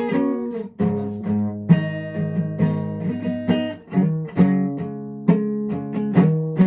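Guitar strumming chords, each strum ringing out before the next, with the chord changing every second or two.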